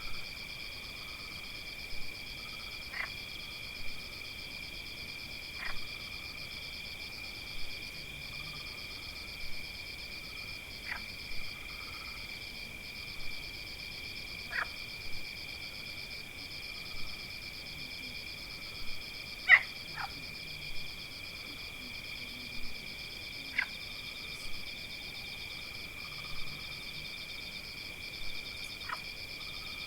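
Forest animal chorus: a steady, high-pitched pulsing trill that never lets up. Over it, a lower short call repeats about every two seconds, and now and then a brief sharp chirp cuts in, loudest about two-thirds of the way through.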